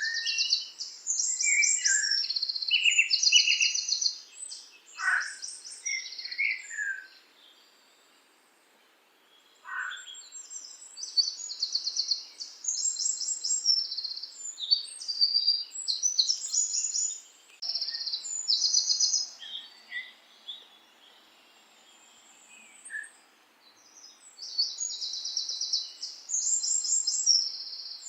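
Songbird singing: quick, high, trilled phrases, in three bouts separated by short pauses, over a faint outdoor background hiss.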